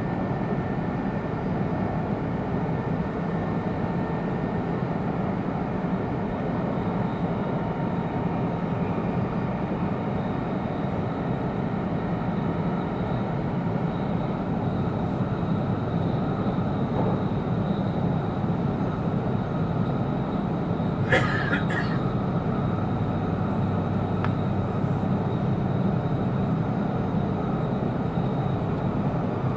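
Cabin noise inside an E2 series Shinkansen car on the move: a steady rumble and rush from the running gear and air. About two-thirds of the way through, a brief, sharp, higher-pitched noise lasts about a second.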